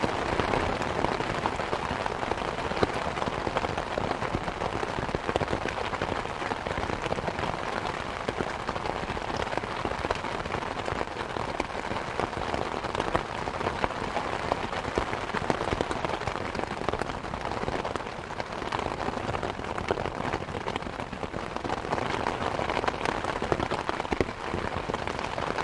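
Steady rain falling, with the scattered pops and crackles of a wood fire burning in a fireplace mixed in.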